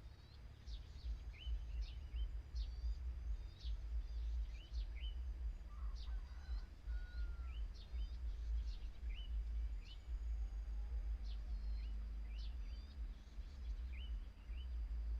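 Wind buffeting the microphone as a gusty low rumble, with many short, high bird chirps repeating throughout.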